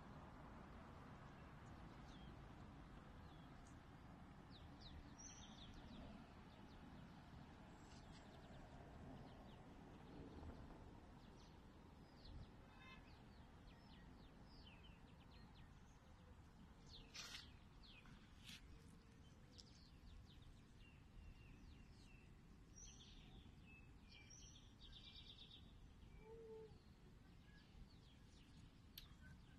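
Quiet outdoor background noise with faint, scattered bird chirps every few seconds.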